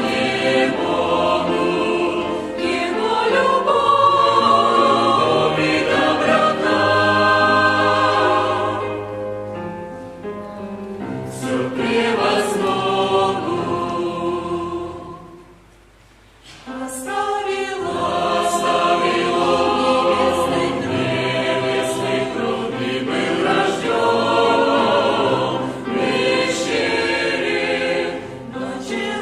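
Church choir singing a hymn, held sung phrases with a short break between phrases a little past the middle.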